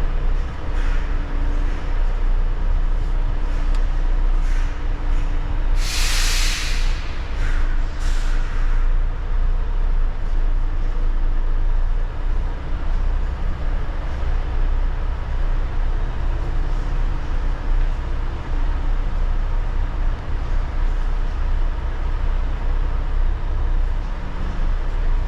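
Volvo truck's diesel engine running with a steady low rumble. About six seconds in comes a loud air-brake hiss lasting about a second, followed by a shorter one two seconds later.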